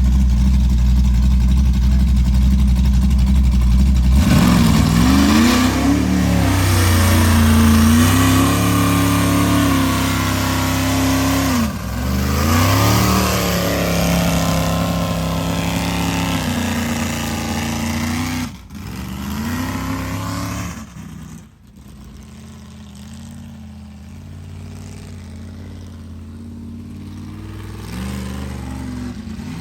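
Mud-race truck engine held low, then revving hard with its pitch climbing and dropping several times. About two-thirds of the way through it turns much quieter.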